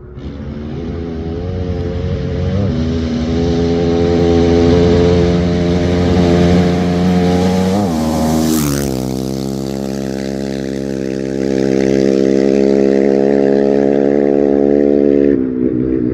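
A rally-raid competitor's engine at full throttle, rising in pitch as it approaches. It passes close by about eight seconds in with a brief rush, then the pitch drops sharply and the engine runs on at a steady lower pitch as it pulls away.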